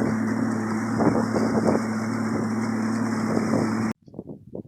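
An engine running at a steady pitch, with wind rushing over the microphone. It cuts off suddenly about four seconds in.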